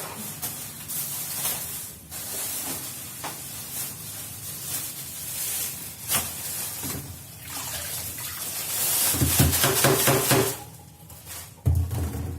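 Plastic food-storage containers and bags being handled: irregular rustling and clicking, with a few heavier knocks near the end.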